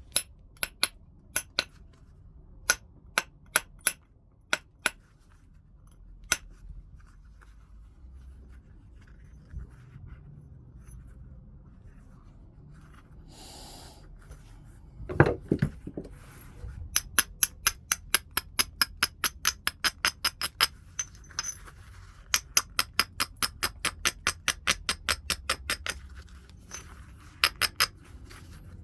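Heat-treated Burlington chert being flintknapped: a scatter of sharp, ringing clicks, one heavier knock about halfway, then a fast, even run of light ticks, about four a second, through the last ten seconds or so.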